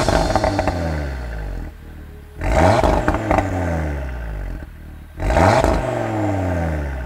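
Audi TT RS 8S's turbocharged 2.5-litre five-cylinder engine blipped three times, each sharp rev falling away again, with crackling from the exhaust as the revs drop.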